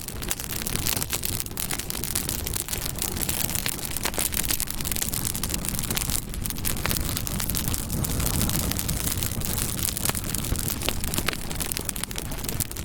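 Wood campfire burning: a steady rush of flames with frequent sharp crackles and pops.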